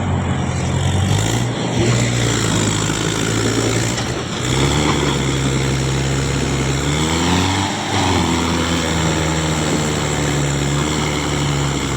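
Tractor diesel engine running hard under load, pulling in a tug-of-war. Its pitch steps up about a third of the way in, then sags and recovers briefly partway through.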